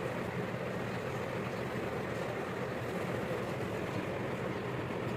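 Steady mechanical rumble of a running motor or engine, unbroken and even in level.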